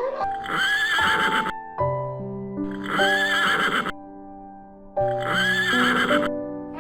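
Horse neighing three times, the same quavering whinny repeated about every two seconds, over background music.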